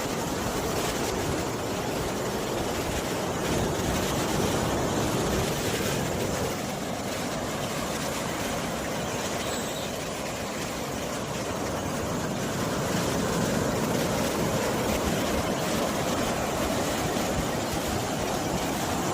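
Steady rushing of sea surf and wind, swelling and easing slowly every several seconds.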